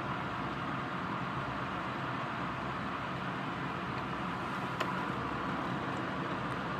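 Steady rain falling, an even hiss with no thunder, and one small sharp tick about five seconds in.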